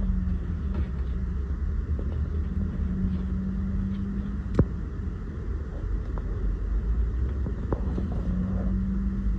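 A vehicle engine running steadily: a low rumble with a steady hum, and a single sharp click about four and a half seconds in.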